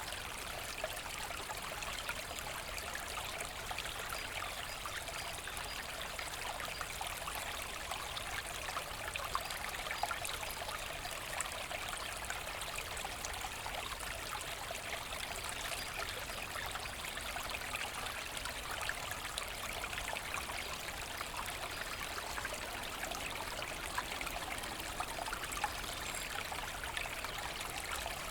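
Small forest brook babbling and trickling steadily over stones, an even rush with many small splashes.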